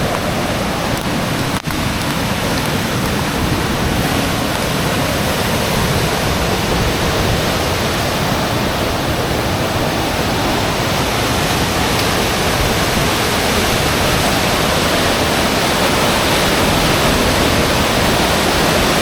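Loud, steady rush of rough, fast-flowing river water, with a brief dropout about a second and a half in.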